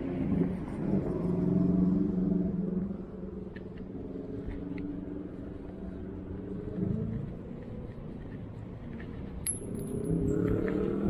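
Street traffic: car engines running close by, louder in the first couple of seconds and again near the end, with a few light clicks in between.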